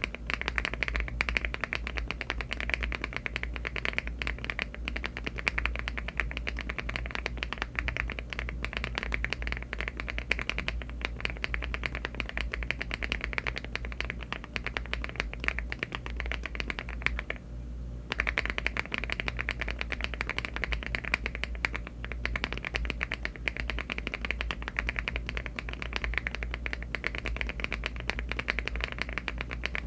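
Fast, continuous typing on a LEOBOG Hi75 aluminium mechanical keyboard fitted with HMX Glaze Jade linear switches (53 g) and Cherry-profile keycaps: a dense run of key clacks, with a brief pause a little past halfway.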